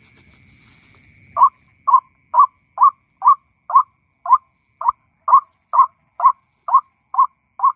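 Recorded calls of a white-breasted waterhen (ruak-ruak) played from an MP3 player as a lure: a steady string of short, rising 'kwak' notes, about two a second, starting about a second and a half in.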